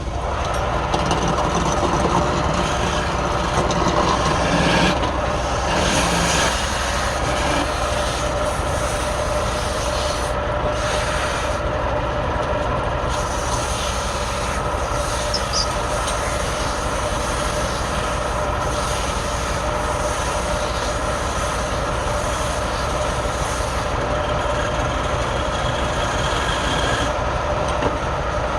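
Wood lathe running steadily: a motor hum with a broad hiss over it, a little louder in the first few seconds.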